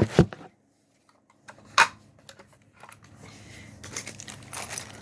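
Plastic packaging bag crinkling and rustling as it is handled and opened. A single sharp click comes a little before the crinkling starts.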